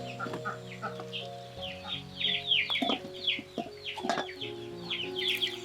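Birds chirping in rapid, short falling peeps, over background music with sustained notes.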